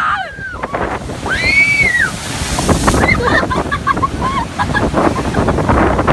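Big Lake Superior waves crashing and washing against the shore, with wind buffeting the microphone. About a second in, a short high cry rises and falls over the surf.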